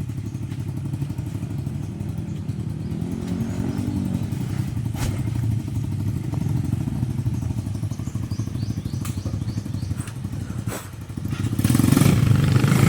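Motorcycle engine running steadily, with a few sharp knocks along the way; it gets louder about a second before the end.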